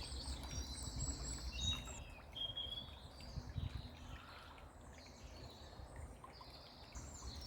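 Songbirds singing high chirping phrases, busiest in the first two seconds and again near the end, over the faint steady wash of a bubbling brook and a low rumble.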